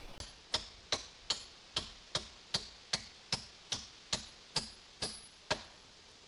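A regular series of about thirteen sharp clicks, roughly two and a half a second, stopping about five and a half seconds in.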